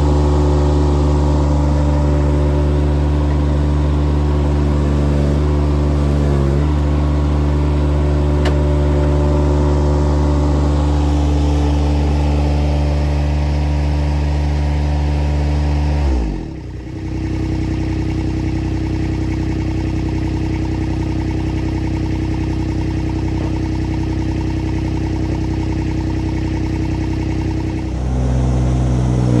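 Mini excavator's diesel engine running steadily at high speed, with a brief dip about six seconds in. It drops to a lower engine speed a little past halfway and picks up again near the end.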